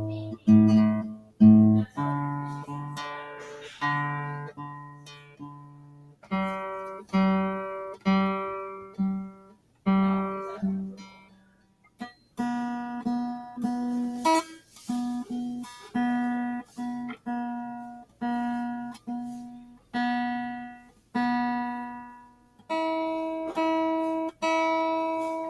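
Guitar playing a slow chord progression: each chord is struck and left to ring out, about one to two strikes a second, with the chord changing every few seconds.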